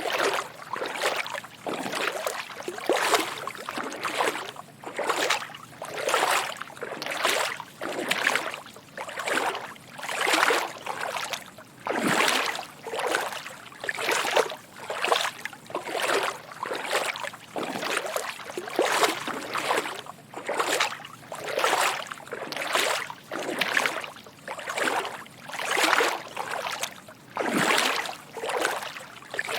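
Footsteps wading through shallow water at a steady walking pace, each step a soft slosh and splash.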